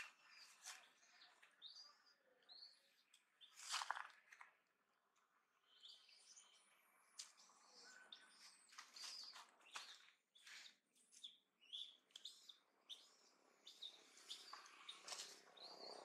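Faint birdsong: scattered short, high chirps, with light rustles and clicks and a louder click about four seconds in.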